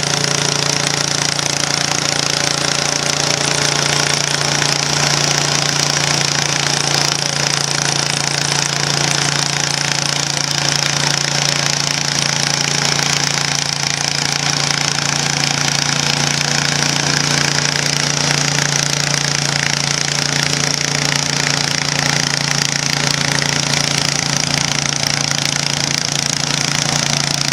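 John Deere 214 garden tractor's single-cylinder engine running hard and steady at a constant pitch, pulling a weight sled.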